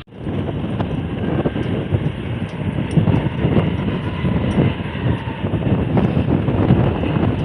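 Jet airliner engines rumbling loudly with irregular crackle, starting abruptly at an edit cut.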